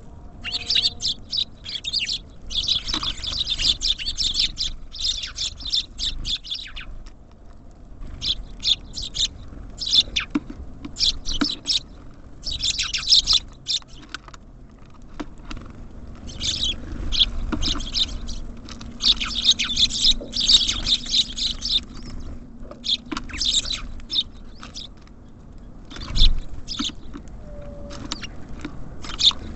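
Small songbirds at a feeder chirping in dense, busy bouts that come and go, with one knock near the end.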